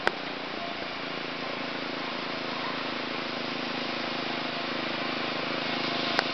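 Mini bike's small engine running steadily at a distance, slowly getting a little louder, with a sharp click just after the start and another near the end.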